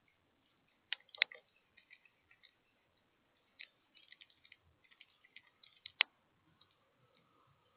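Light, scattered clicking and tapping of small birds at a bird feeder, with two sharper knocks, one about a second in and one about six seconds in.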